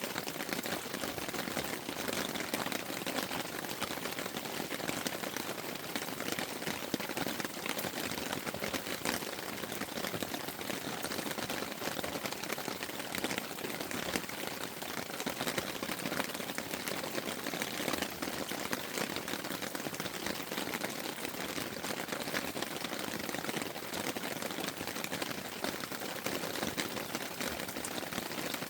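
Rain pattering on a tent: a steady, dense patter of drops.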